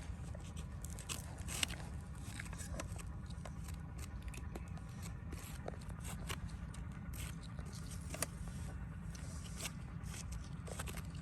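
Irregular scraping with scattered sharp clicks and ticks, over a steady low rumble.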